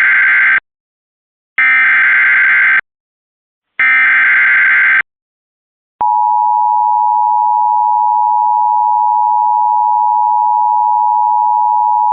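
Emergency Alert System tones for a National Weather Service warning. The end of one burst of harsh digital SAME header data, then two more bursts about a second long. About six seconds in, the steady two-tone attention signal begins and holds.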